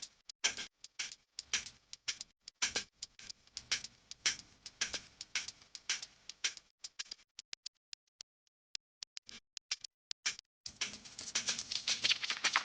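Irregular sharp clicks and taps, several a second, like small parts or tools being handled. They thin out to sparse single clicks past the middle, then a denser patch of clicking and rustling starts near the end.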